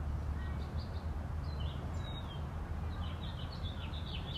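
Outdoor ambience: small birds chirping over a steady low rumble, with a few scattered chirps and then a busier run of song near the end.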